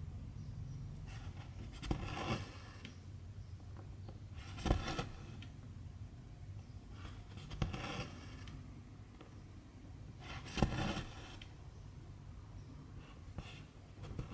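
Needle pushed through cross-stitch fabric and silk thread drawn through after it: a sharp tick followed by a short rasping pull, five times, roughly every three seconds, over a low steady hum.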